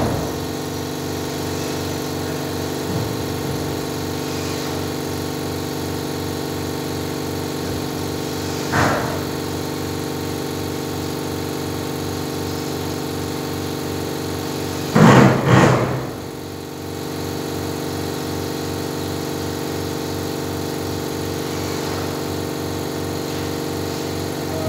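A machine running with a steady, unchanging drone. Short louder sounds break in about nine seconds in and again, louder, around fifteen seconds in.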